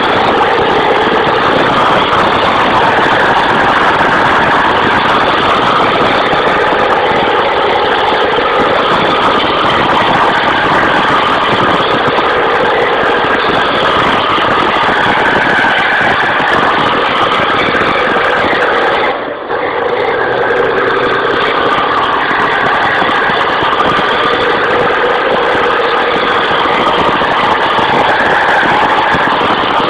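Truck engine running steadily and loudly, with a brief drop in the sound about 19 seconds in.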